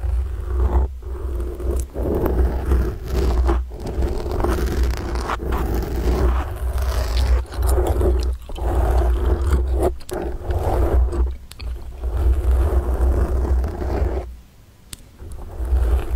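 Fingers gripping and scratching a microphone, making a dense scratching and rubbing noise with a deep handling rumble and many small clicks. It stops briefly about fourteen seconds in, then starts again.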